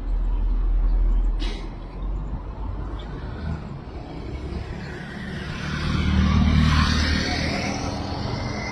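Road traffic passing close by: engine rumble and tyre noise, with one vehicle passing loudest about six to seven seconds in, and a brief hiss about a second and a half in.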